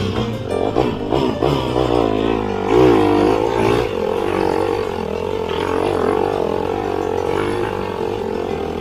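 Off-road motorcycle engine running under load on a trail, its pitch rising and falling as the throttle is worked.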